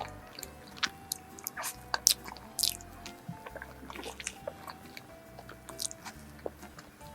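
Close-miked eating sounds: mouth clicks, smacks and soft chewing of a creamy pudding dessert, scattered irregularly over quiet background music.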